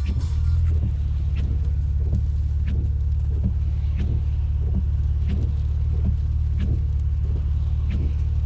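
Car engine and road rumble, heard steady and low while driving, with a sharp tick repeating about every two-thirds of a second.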